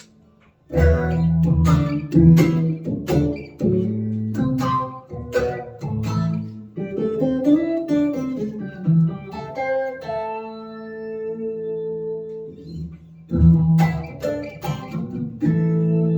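Electric guitar played through a Boss SY-200 guitar synth pedal on its Lo-Fi Phase preset, with no amp simulator. Picked notes and chords start under a second in, a chord rings and is held in the middle, and after a brief gap the chords come back near the end.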